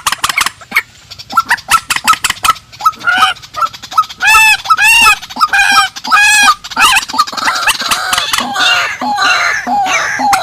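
Rails calling, from a purple swamphen and white-breasted waterhen call recording. A quick series of short clicking notes gives way, about four seconds in, to a run of repeated arched, nasal calls. From about seven seconds in it turns to a dense chatter.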